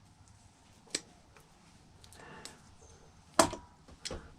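Sharp clicks from a crystal oscillator being pried or snipped off a karaoke machine's circuit board: a few light clicks, then one loud snap about three and a half seconds in, followed by a couple of small clicks.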